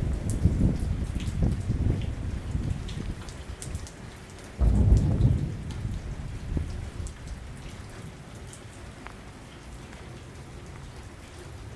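Thunderstorm: thunder rumbling and fading, then a louder peal of thunder about four and a half seconds in that dies away over the next few seconds, with rain falling throughout.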